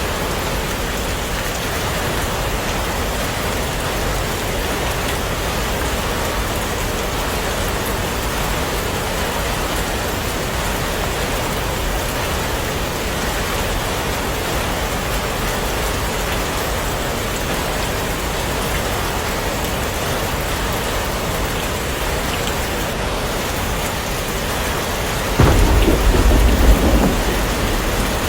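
Steady heavy rain. Near the end a sudden low rumble of thunder breaks in, loud for about two seconds and then fading.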